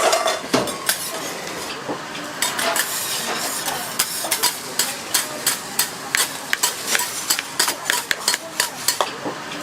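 Egg fried rice sizzling in a hot pan while a metal utensil stir-fries it. From about two and a half seconds in, the utensil clacks against the pan in a quick, steady rhythm of several strikes a second.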